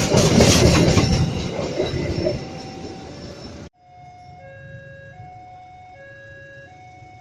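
Passenger train running past close by, its wheels clattering with repeated sharp clicks over the rail joints; the sound cuts off abruptly about three and a half seconds in. After the cut, a simple electronic tune of held notes plays at a lower level.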